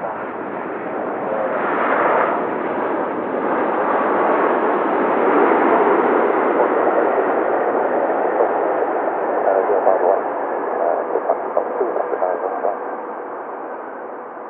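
Boeing 787-9 Dreamliner jet engines passing on the landing approach, a steady rushing noise that swells over the first several seconds, holds, then fades.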